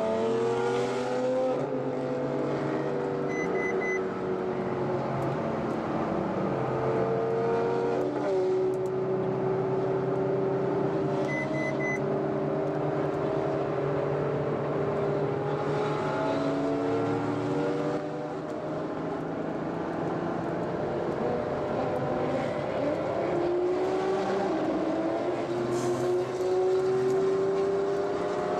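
Ferrari FF's V12 engine heard on board while driving, its pitch climbing and dropping with gear changes several times over road noise. Two short double beeps sound, at about three and a half and eleven and a half seconds in.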